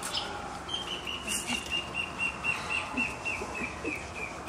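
A bird calling a long series of about twenty short, clear notes, roughly five a second, that slowly fall in pitch. The series starts just under a second in.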